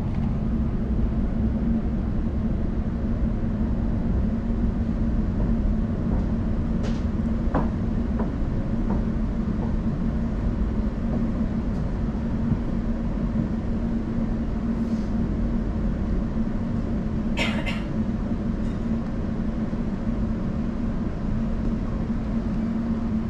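Elizabeth line Class 345 train running, heard from inside the carriage: a steady rumble with a constant low hum, a few faint ticks about seven to nine seconds in, and one brief clatter a little past the middle.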